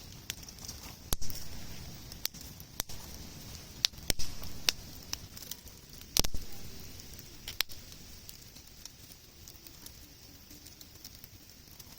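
Wood campfire crackling, with irregular sharp pops; the loudest come about one, four and six seconds in, and they grow sparser toward the end.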